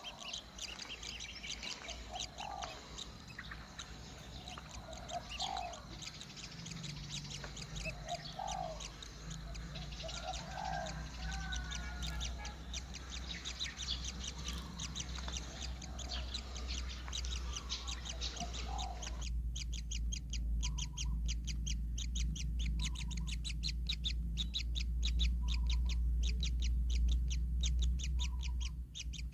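Fast, high, repeated chirping of kingfisher nestlings, several notes a second. Over the first two-thirds a lower call rises and falls every couple of seconds. The background changes abruptly about two-thirds in, and a low rumble grows louder toward the end.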